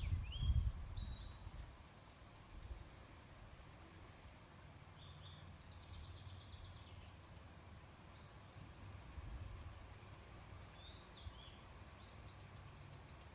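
Small birds calling: scattered short high chirps, a quick trill about six seconds in, and a run of rapid notes near the end. Wind buffets the microphone with a low rumble in the first second or two.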